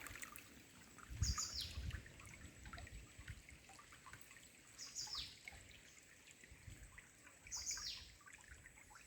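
A bird calling three times, a few seconds apart, each call a brief high note that slides down in pitch. A low rumble comes with the first call.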